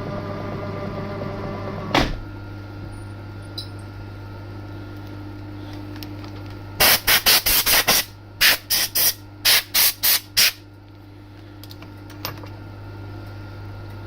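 About a dozen short, sharp hissing spurts in two quick groups, like a spray nozzle being pulsed, over the steady hum of the milling machine. A pitched running sound stops with a knock about two seconds in.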